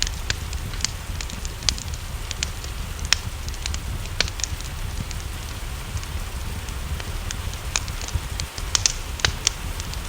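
Wood fire crackling with frequent sharp, irregular pops over a steady rain hiss and a low rumble.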